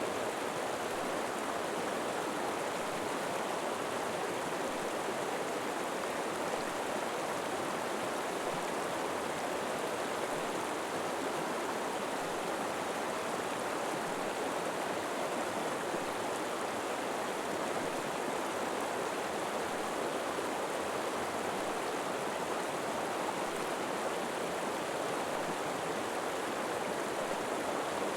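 River water flowing steadily: a continuous, even rush of moving water with no change in level.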